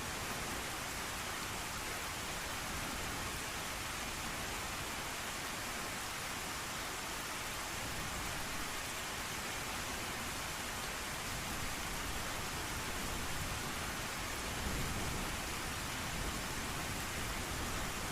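Steady hiss of heavy rain falling, with a low rumble of distant thunder swelling in the last few seconds.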